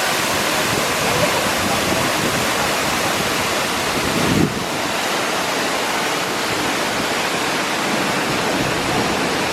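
Waterfall, a loud and steady rushing of falling water, with a brief change in the noise about four and a half seconds in.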